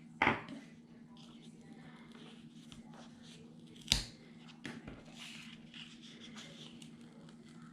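Paper and craft pieces being handled at a work table: light rustling and a few sharp clicks and snips. The loudest sound is a short one just after the start, with a sharp click about four seconds in. A steady low hum runs underneath.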